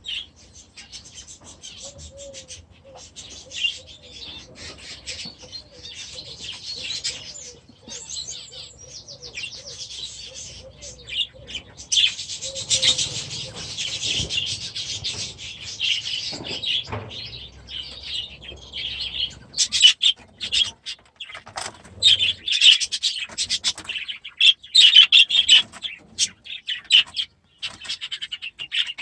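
A flock of budgies chattering and chirping, a dense run of quick warbling calls that grows busier and louder in the second half, with occasional wing flutters.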